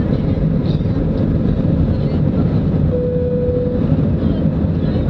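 Boeing 777's jet engines running at takeoff power, a loud steady rumble mixed with wind on the microphone. A short steady whistle sounds for under a second about three seconds in.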